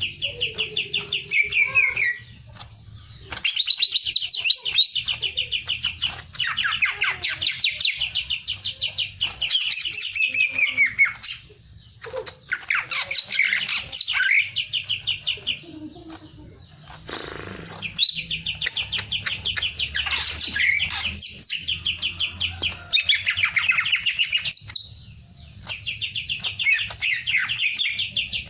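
A songbird singing continuously in long, fast trills of rapidly repeated high notes, mixed with varied chirps and whistled phrases, broken by a few short pauses.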